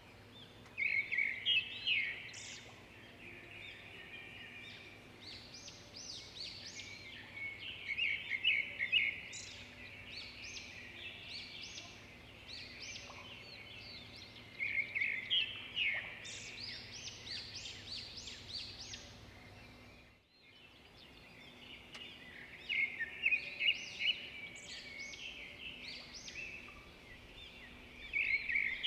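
Small birds chirping in quick bursts of rapid high notes every few seconds, over a faint steady hum.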